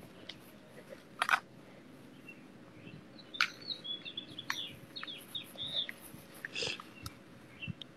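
Small birds chirping, a run of short high chirps through the middle, with a few brief sharp noises in between.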